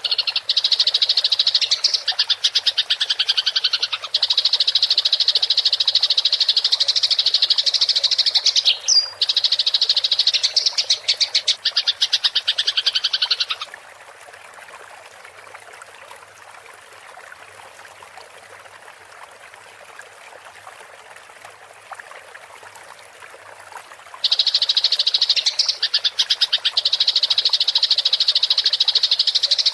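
Eurasian tree sparrows chattering non-stop in rapid, shrill bursts, the excited, aggressive calling of sparrows squaring up to fight. The chatter stops about 13 seconds in, leaving a quieter stretch of faint running water, and starts again near the end.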